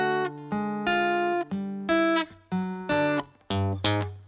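Acoustic guitar played fingerstyle, notes plucked one by one and in pairs of strings, each left to ring, with a few quicker notes near the end.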